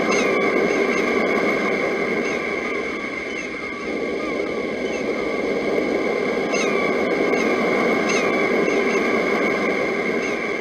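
Steady wash of sea surf with a slight rise and fall, with birds chirping in short repeated calls over it.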